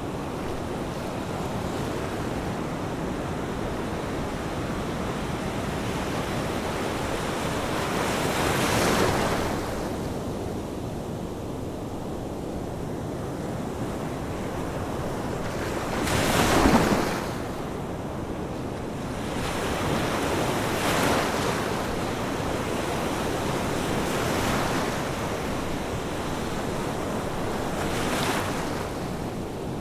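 Ocean waves breaking on a shore over a steady wash of surf, with about five breakers cresting and fading, the loudest just past the middle.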